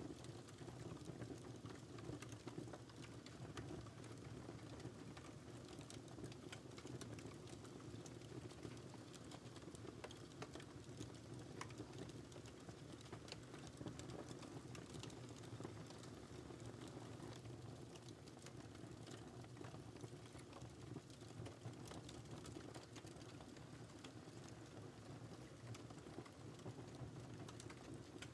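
Fireplace fire crackling faintly: many small irregular pops and snaps over a steady low rumble of burning.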